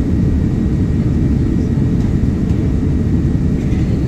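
Steady low rumble of airflow and engines heard inside the passenger cabin of a Boeing 787-9 airliner in flight.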